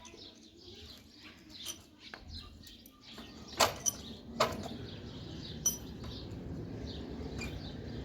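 Small birds chirping over and over, with four sharp clinks or knocks in the middle, the first the loudest. A low rumbling noise builds in the background from partway through.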